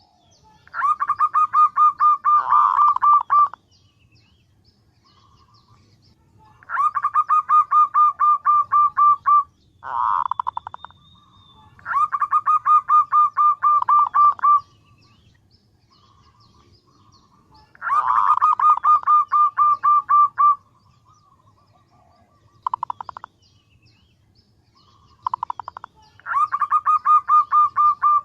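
Female zebra dove (perkutut) calling: five bouts of a fast, rattling train of short notes, each bout lasting two to three seconds, with a few shorter bursts between them. This is the call a female gives to attract males, used as a lure call.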